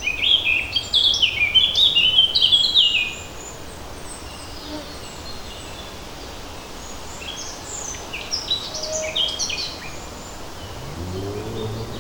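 Songbirds singing: a loud, rapid phrase of short, high, stepped notes in the first three seconds, then quieter song in the second half. Near the end a low buzzing hum comes in, over a steady background hiss.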